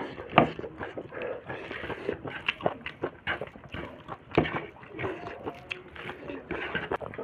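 Close-up eating sounds from a snail and pork meal: wet chewing and lip-smacking with many short, sharp clicks.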